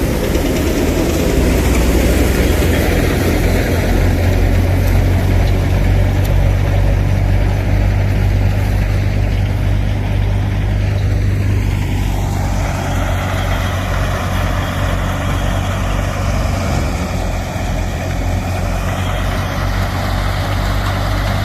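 Massey Ferguson 375 tractor's diesel engine running steadily with a deep, even low throb; the higher part of the sound changes about twelve seconds in.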